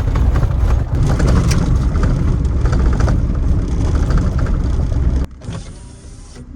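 Road noise inside the cab of a 2010 Ford Ranger with the 4.0 L V6, driving: a heavy low rumble with rattles and knocks. About five seconds in it cuts off suddenly to a much quieter stretch with a faint steady hum.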